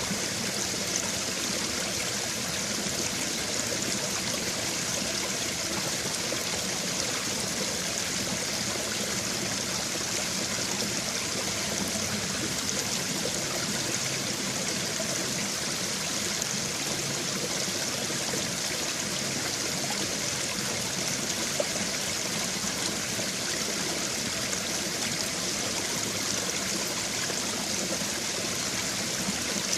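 Babbling brook: shallow stream water flowing and trickling steadily over stones, a constant hiss-like rush.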